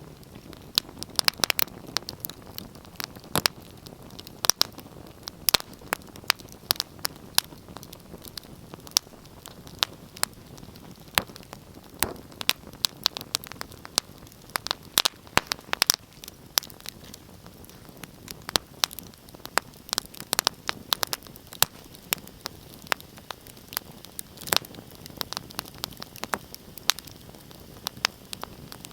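Wood fire crackling in a fireplace: irregular sharp snaps and pops several times a second over a soft steady hiss of the flames.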